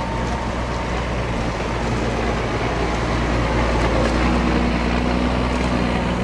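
Fire apparatus diesel engine running steadily: a constant low hum with a faint higher tone joining about two seconds in.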